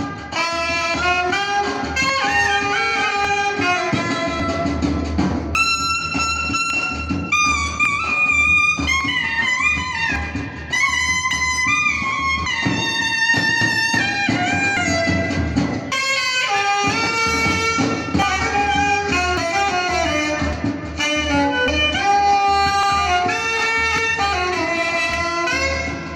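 Live instrumental music: a reed wind instrument plays a gliding, ornamented melody over a steady low beat, with a brief drop about sixteen seconds in.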